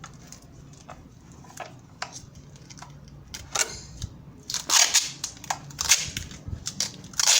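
Adhesive tape being pulled off the roll and wrapped around a split PVC pipe mould: a run of short, sharp rips and cracks, loudest in the second half.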